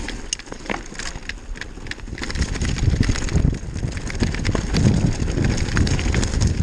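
Downhill mountain bike rattling over loose, wet rocks at speed: a steady stream of sharp clicks and knocks from stones, tyres and the bike, over a low wind rumble on the microphone.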